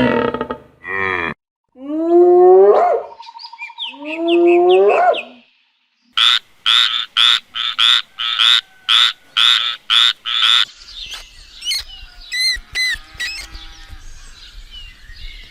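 Cow mooing in two long calls, followed by a frog croaking in a quick run of about a dozen short croaks, about two or three a second, then fainter chirping calls.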